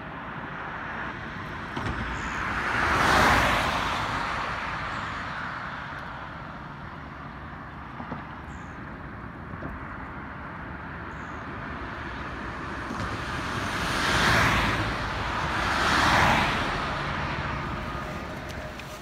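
Road traffic running steadily, with three vehicles passing by, each swelling and fading: one about three seconds in and two close together near the end.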